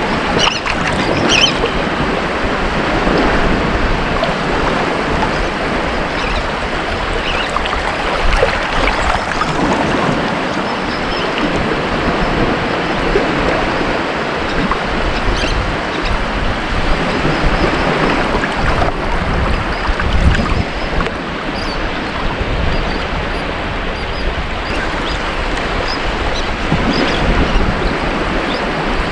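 Ocean surf breaking on a beach: a continuous roar of waves swelling and easing every few seconds, with faint hiss and crackle from the wash, and some wind on the microphone.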